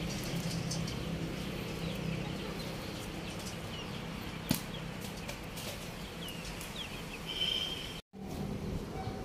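Outdoor background noise with a steady low hum and a few faint, short bird chirps, a single sharp click about four and a half seconds in, and a brief dropout to silence near the end.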